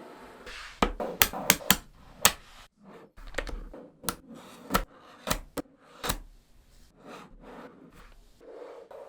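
Small neodymium magnetic balls snapping together by hand: about a dozen sharp clicks at irregular intervals, with softer rubbing and rolling of the balls between them.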